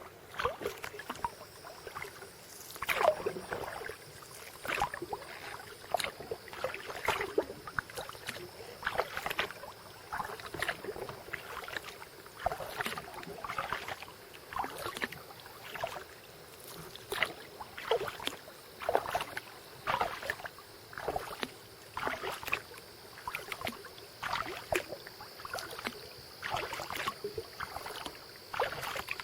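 Kayak paddle strokes: the blades dip into the water in a steady rhythm, about one splash a second. A faint steady high whine runs underneath.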